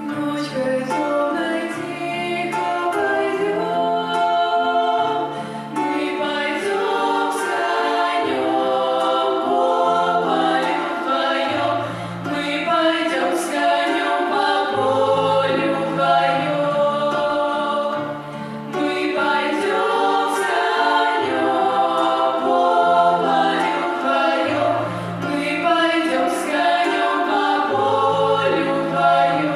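Choir singing with instrumental accompaniment, over a bass line that steps from note to note.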